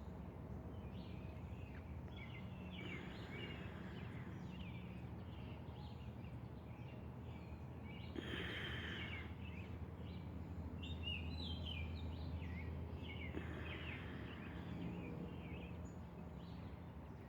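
Birds chirping faintly in short, scattered calls over a low, steady hum.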